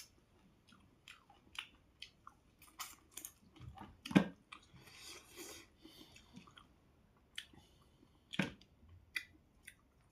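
Close-up chewing and mouth sounds of a person eating: scattered small wet clicks and smacks, with two louder ones about four seconds in and again about eight seconds in.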